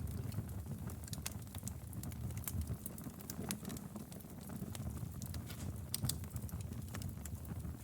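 Wood fire burning in a fireplace, crackling with irregular sharp snaps and pops over a low steady rumble of the flames. The biggest pops come about two and a half seconds in and near six seconds.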